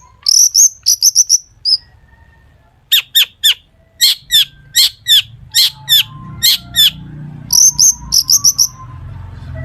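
Long-tailed shrike (cendet) singing in runs of quick, sharp, high notes, many of them falling in pitch, with a short pause about two seconds in. A faint low rumble grows in the background during the second half.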